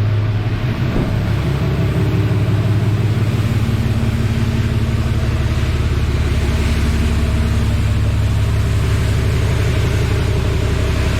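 Automatic car wash running: a steady machine drone with a hiss of spraying water over it.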